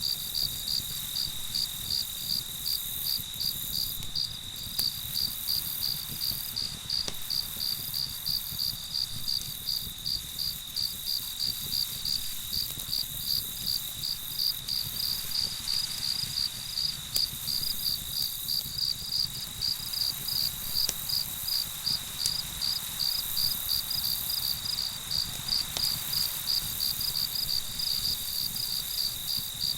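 Crickets chirping in a steady, even rhythm of about two high chirps a second, over a continuous high insect trill, with a few faint isolated clicks.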